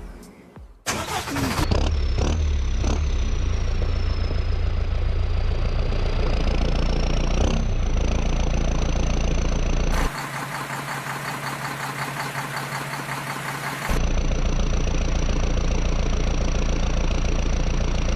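An engine starting about a second in and then running steadily, with a thin high whine over a low rumble. The sound changes abruptly twice, first to a thinner, higher running sound and then back.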